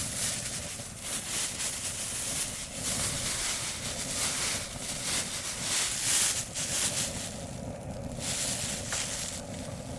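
Wood campfire burning with crackles, mixed with wind buffeting the microphone.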